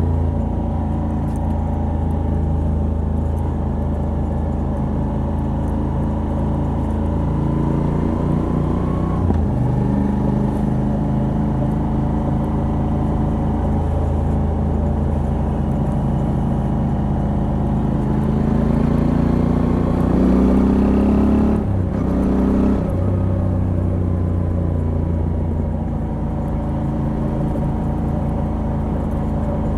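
Moto Guzzi V85TT's air-cooled transverse V-twin running under way through its stock exhaust with a decat pipe. The revs climb and then drop sharply twice, about nine seconds in and again about twenty-two seconds in, and hold steady in between.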